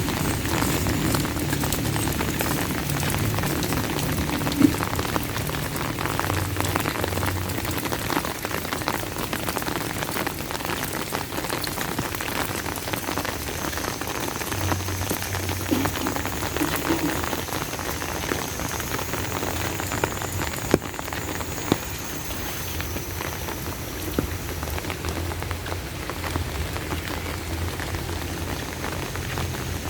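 Heavy rain falling steadily, a dense patter of drops with a few sharper single drop hits now and then.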